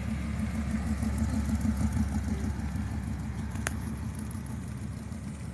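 A classic car's engine running at low speed as the car rolls slowly past, a low pulsing rumble that grows louder for about two seconds and then fades away.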